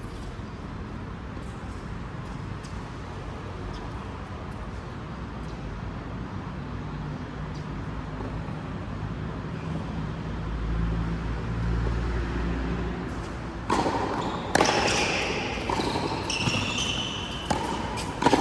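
Steady background noise, with a low rumble swelling and fading around the middle. In the last few seconds, play on the court starts: sharp racket hits and high squeaks.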